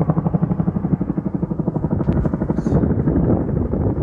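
Large firefighting helicopter flying close, its rotor blades beating in rapid, even pulses.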